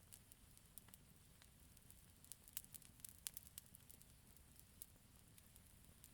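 Campfire crackling faintly: scattered sharp pops and snaps, with a quick flurry of them in the middle, over a low steady rumble.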